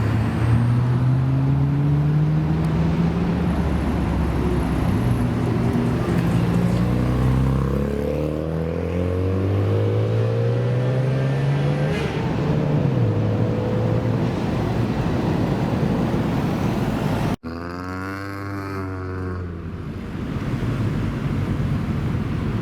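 Car engines accelerating away, their notes rising in pitch over several seconds, one climb after another. After a sudden cut about three-quarters of the way through, another car's engine note rises and falls briefly.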